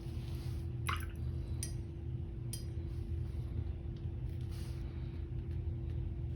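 Watercolour brush working paint and water on a palette: a few faint wet clicks and small drips, one with a short rising plink about a second in. Underneath is a steady low hum.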